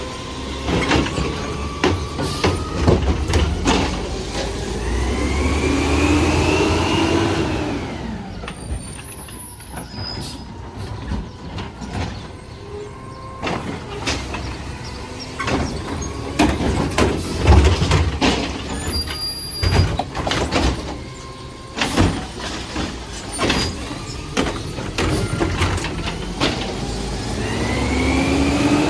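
Garbage truck working a line of recycling carts: the diesel engine revs up twice to drive the hydraulics, with repeated bangs and knocks as carts are handled and air brake hisses.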